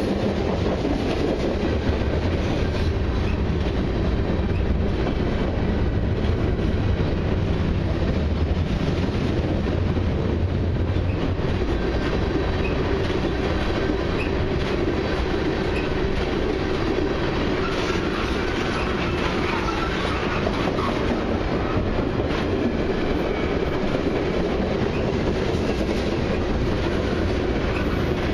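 Freight cars of a long mixed train rolling past on the adjacent track: steady rumble of steel wheels on the rails with the clickety-clack of the trucks passing over rail joints.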